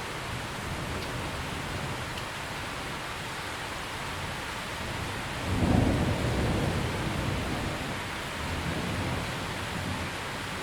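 Steady heavy rain hissing, with a low rolling rumble of thunder that builds sharply about halfway through and slowly dies away. A softer second rumble comes near the end.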